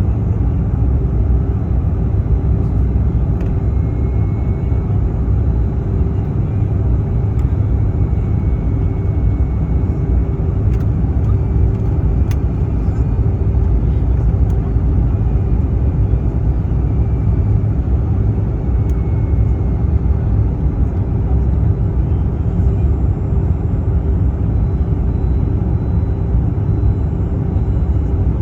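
Airliner cabin noise on the approach to land: a steady low rumble of engines and airflow with a constant hum on top.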